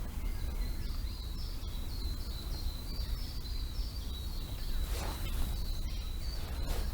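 A small songbird singing a long run of short, high chirps, repeated several times a second, over a steady low rumble of wind. A brief knock or rustle comes about five seconds in and again near the end.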